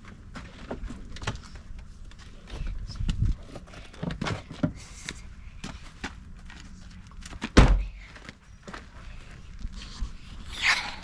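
Scattered knocks and clicks of things being handled, with one heavy thump about seven and a half seconds in; no engine running.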